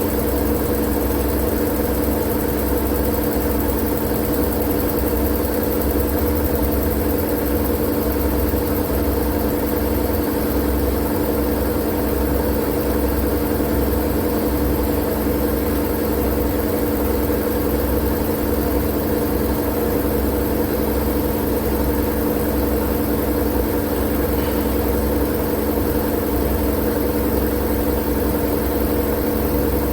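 Steady white-noise track: an unchanging machine-like hiss with a constant low hum and rumble underneath.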